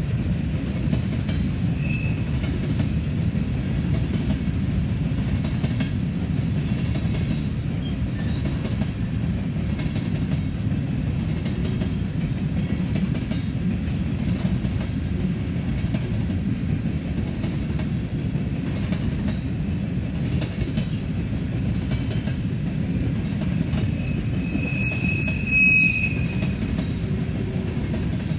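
Empty hopper cars of a long freight train rolling past in a steady low rumble, with wheels clacking over the rail joints. A brief high wheel squeal comes about two seconds in, and a louder one about twenty-five seconds in.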